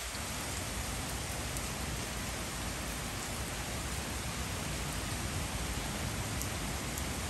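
Heavy rain falling steadily on a wooden deck and the surrounding trees.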